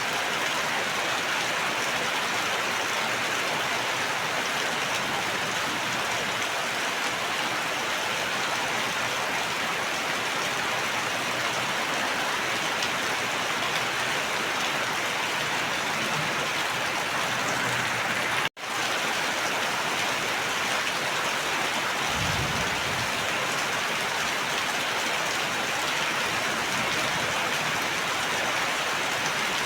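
Steady heavy rain falling, an even hiss. About two-thirds through the sound cuts out for an instant, and a few seconds later there is a brief low rumble.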